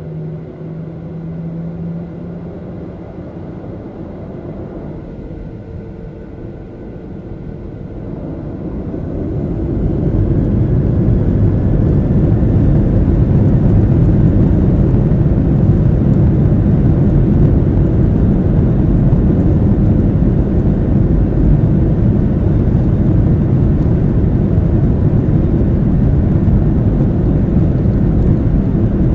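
Airliner's engines spooling up for takeoff: a steady low hum that rises, from about eight seconds in, into a loud, even rumble of full takeoff power.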